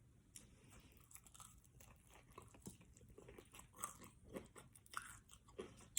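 A person chewing food with faint crunches, a little louder in the second half.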